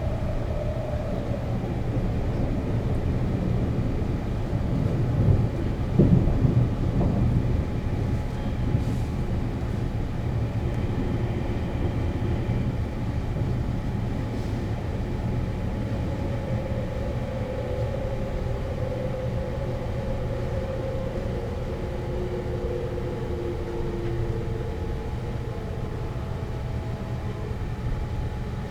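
Sleeper express train of the 285 series electric multiple unit type running on rails, a steady low rumble with a louder rattling stretch about six seconds in. A faint whine falls slowly in pitch in the second half.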